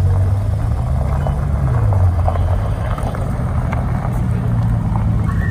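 Bugatti Chiron's quad-turbocharged W16 engine running at low revs as the car creeps forward at walking pace, a steady low hum that dips slightly in pitch about two seconds in.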